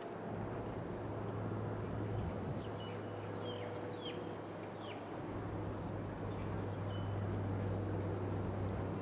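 Low steady drone of a switcher locomotive's engine as it slowly pushes a train, under a steady high insect trill. A few short falling bird chirps come about two to five seconds in.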